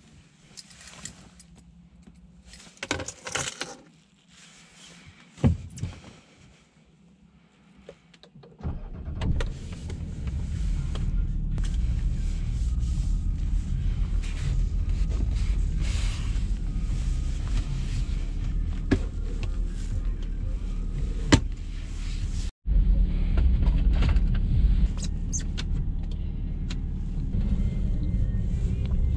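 A few short clicks and rustles, then about nine seconds in the 2009 Jaguar XF's 2.7-litre V6 diesel starts and settles into a steady idle.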